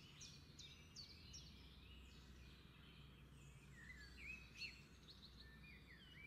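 Faint birdsong: a small bird chirping over and over in short, downward-sliding chirps, with a few lower chirps about two thirds of the way through, over quiet room tone with a low hum.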